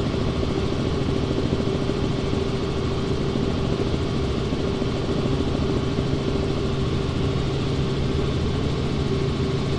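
Helicopter engine and rotor noise heard inside the cabin: a steady drone with a constant hum.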